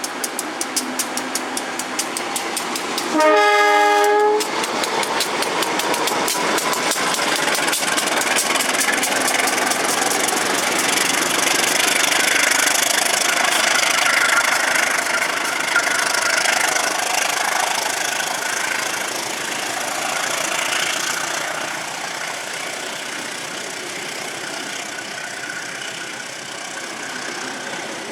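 A passing train: wheels clicking rapidly over the rail joints, a single horn blast of about a second some three seconds in, then the long rushing rumble of the cars going by, loudest in the middle and easing off near the end.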